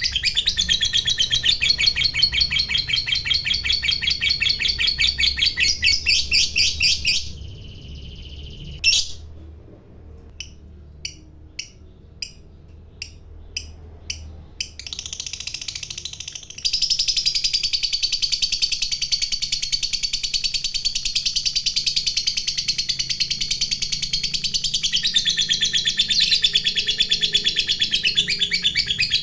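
Lovebird singing its long, rapid chattering 'ngekek' trill. The trill breaks off about seven seconds in, leaving a brief steady note and then a handful of single sharp chirps, and resumes about sixteen seconds in as a continuous high chatter.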